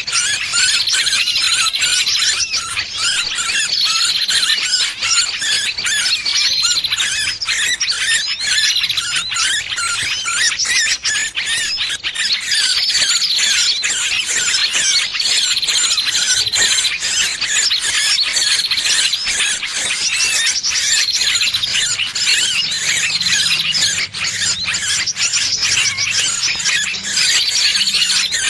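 Dense, continuous high-pitched squealing and chattering of a small bird in distress, as if caught or pinched, with short falling squeals repeated every second or two over a rapid jumble of squeaks.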